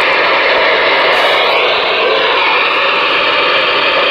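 Steady radio static hissing from the speaker of a Ranger RCI-2970N4 ten-meter radio receiving with the squelch open.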